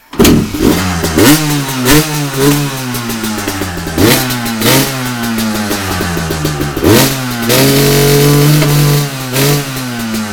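A motorcycle engine bursts into life and is revved hard in repeated sharp blips. It is held at high revs for a couple of seconds near the end before dropping back.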